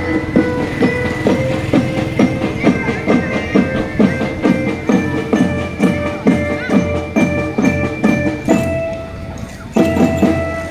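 Drum band playing: marching drums beat a steady rhythm of about three strokes a second under held melody notes. The drums drop out briefly near the end, then come back in.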